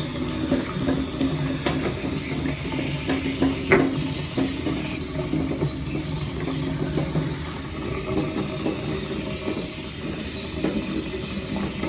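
Water running steadily from a tap that keeps flowing after a new washer was fitted, because the old washer is still stuck on the seat. There is a knock about four seconds in.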